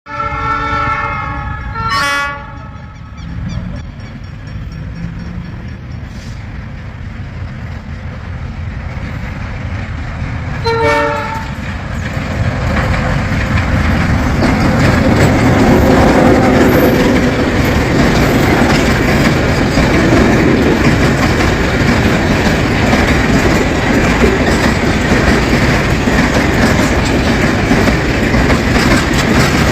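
ALCo RSD16 diesel locomotive sounding its multi-note horn in a long blast at the start and a short blast about eleven seconds in, over the low rumble of its engine. The train then passes, the empty freight wagons rolling by with clickety-clack from the wheels on the rail joints, growing louder from about twelve seconds in.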